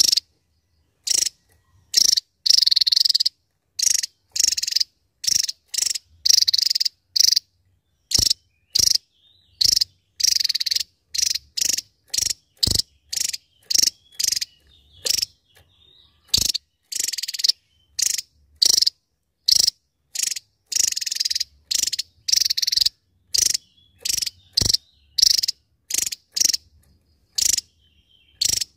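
Javan tesia singing fast, dense 'shooting' song: a rapid run of high bursts, each from a fraction of a second to about a second long, with short silent gaps between them.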